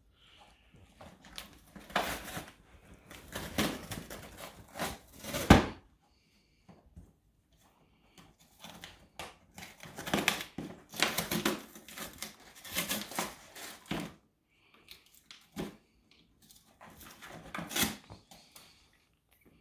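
A dog rummaging in a box, making irregular runs of rustling and scratching that come in bursts of a few seconds with short pauses between, and one sharper knock about five and a half seconds in.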